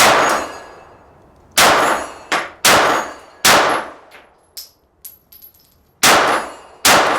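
Six 9mm shots from a Glock 17 pistol, spaced unevenly over several seconds, with steel targets ringing after the hits.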